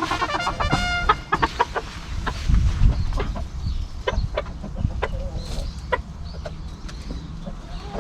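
Chickens clucking, with one drawn-out pitched call in the first second and short clucks scattered throughout. A low rumble of strong wind runs underneath.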